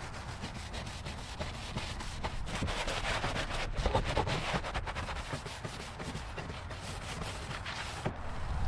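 Repeated hand rubbing strokes against a surface during clean-up of the car, a quick irregular scratchy noise that grows a little louder midway.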